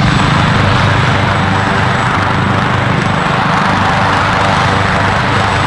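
State police helicopter running close by: a loud, steady rush of engine and rotor noise with a low hum underneath.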